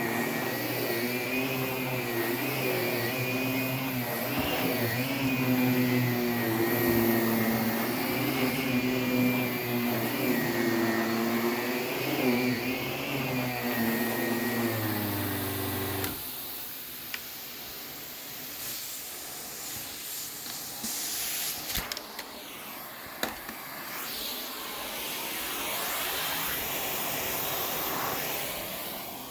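Allegro Champion MUA50 central vacuum running, a motor drone with a wavering pitch. About 16 s in the drone drops out abruptly, leaving a quieter, uneven rush of air with a few clicks that swells and then fades near the end.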